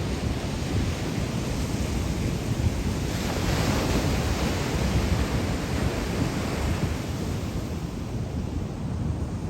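Ocean surf breaking and washing ashore, with wind buffeting the microphone. The rush of the surf swells louder about three seconds in, then eases off.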